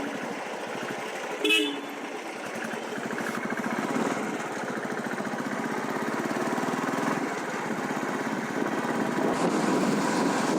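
Royal Enfield Classic 350's single-cylinder engine running steadily under way, with wind noise. A short vehicle horn toot sounds about a second and a half in.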